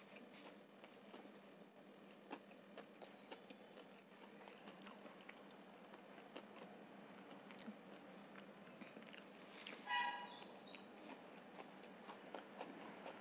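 Close-miked chewing of homemade veg pizza with the mouth closed: soft, irregular, wet mouth clicks. About ten seconds in comes a brief pitched squeak, the loudest sound, followed by a faint, high, steady whistle lasting over a second.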